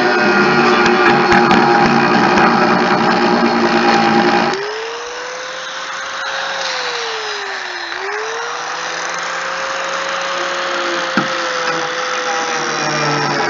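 A handheld power tool runs loudly with a dense grinding noise, then suddenly drops to a quieter steady whine whose pitch sags once near the middle and comes back up.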